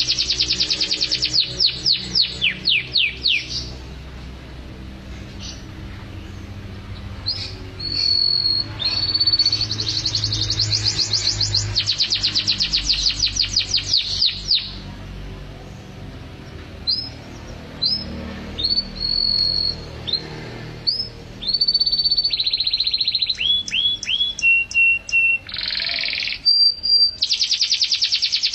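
Domestic canary singing vigorously. It runs fast trills of repeated down-sweeping notes, separated by pauses, with short whistled notes, held steady tones and a harsher buzzing phrase near the end.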